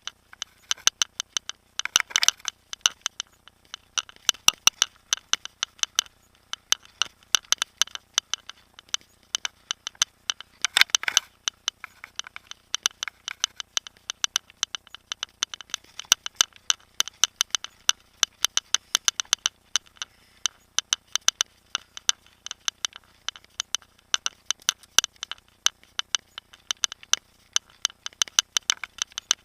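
Mountain bike rattling over a rough trail: dense, irregular sharp clicks and ticks that come in clusters, with no steady engine or wind noise.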